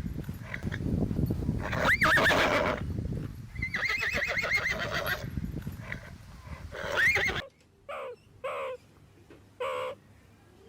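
A horse neighing several times, in long quavering whinnies that rise and fall in pitch. About seven seconds in the sound cuts off abruptly, and a few short, separate bird calls follow.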